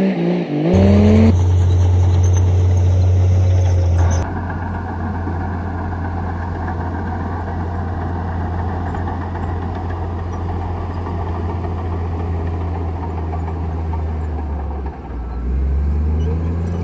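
Komatsu D58E bulldozer's diesel engine running steadily under load with a deep drone. The pitch rises in the first second, the sound changes suddenly about one and four seconds in, and it dips briefly near the end.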